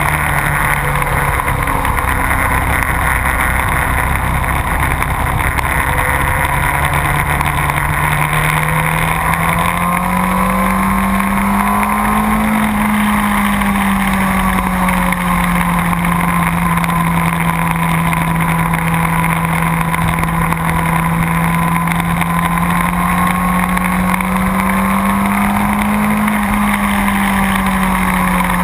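Motorcycle engine running hard at speed with rushing wind noise; its note slowly rises and falls back twice.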